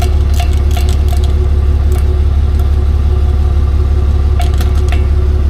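A truck engine running steadily with a deep rumble, with a quick series of clicks in the first second and again near the end.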